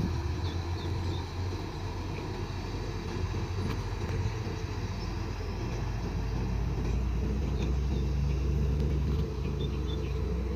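Diesel dump truck engine running, a steady low rumble that grows a little louder in the second half.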